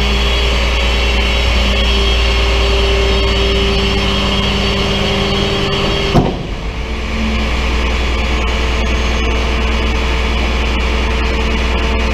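Vehicle engine running steadily with a deep hum. There is a single sharp knock about six seconds in, after which the engine's pitch shifts.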